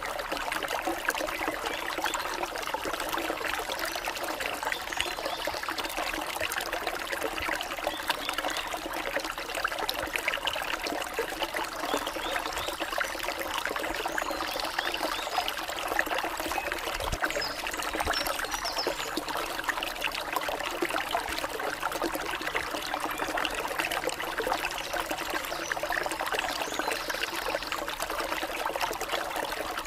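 Water of a forest stream trickling and splashing steadily.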